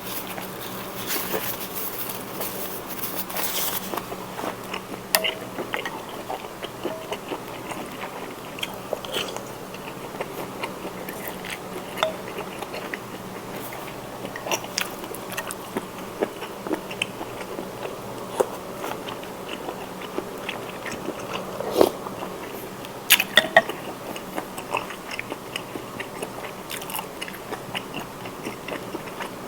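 Close-miked eating of spicy seafood instant noodles with squid: wet chewing with many small clicks and smacks, and a few sharper, louder bites about three quarters of the way through.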